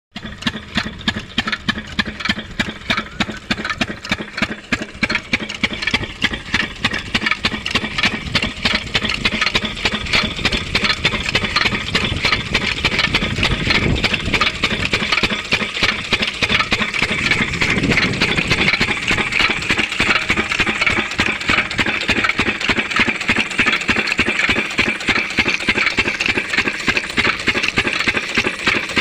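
12 hp diesel engine of an irrigation water pump set running with a rapid, regular knocking beat.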